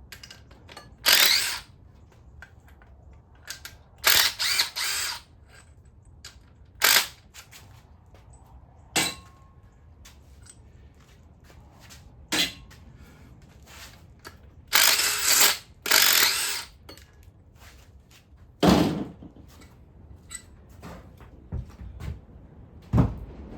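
Cordless impact wrench run in short bursts, several times, spinning out loose bolts from the front of the engine. Near the end come a couple of heavy thuds, like parts or tools set down.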